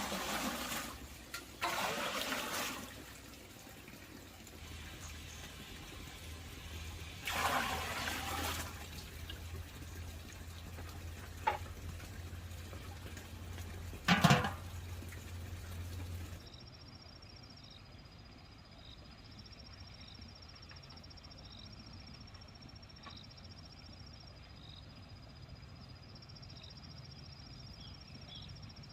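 Water splashing or pouring in several surges of a second or so, with a couple of sharp knocks. About halfway through it cuts to a quieter outdoor background with a steady high insect-like trill.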